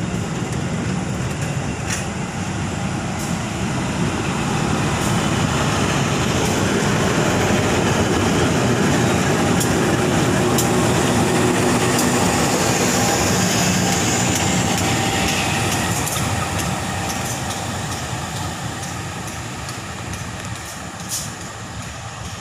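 A diesel locomotive and a track geometry recording coach roll past, with the wheels clicking over the rail joints. The sound swells to its loudest about halfway through as the locomotive goes by, then fades as the train moves away.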